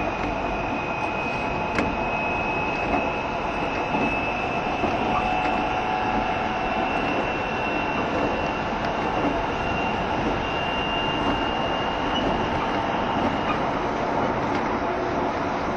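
JR Shikoku 7200 series electric train running, heard from inside the car: steady wheel and track rumble with a motor whine that rises slowly in pitch as it gathers speed. There is a single sharp click about two seconds in.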